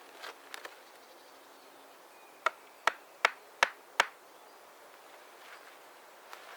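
Five sharp knocks in quick succession, about three a second, with a little faint rustling before them.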